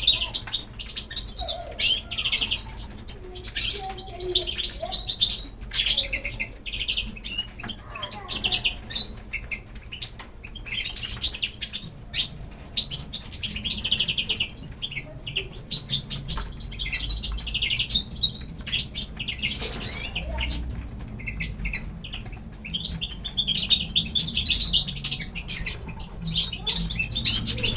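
Pet birds chirping busily: many short, high calls overlapping, with brief pauses between flurries.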